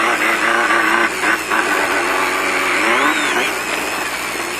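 Off-road race car engine running under varying throttle, heard from inside the car, its pitch wavering and climbing again about three seconds in. A few short knocks from the car working over rough ground come about a second in.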